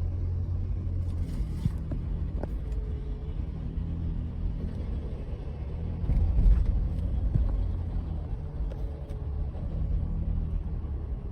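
Low, steady rumble of a moving car's road and engine noise picked up by a dashcam, swelling louder for a moment about six and a half seconds in.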